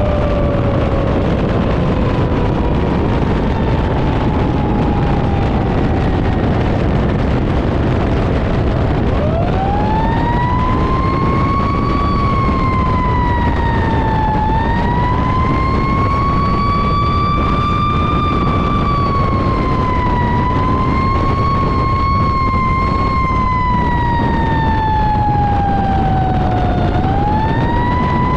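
Fire engine siren wailing over the truck's steady low engine and road rumble. A falling tone fades out over the first several seconds. About nine seconds in the siren winds up again, then rises and falls slowly, dips near the end and climbs once more.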